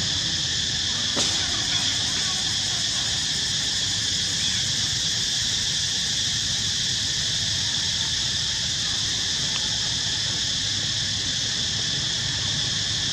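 A steady, high-pitched insect chorus, droning without a break on several overlapping pitches, with one sharp click about a second in.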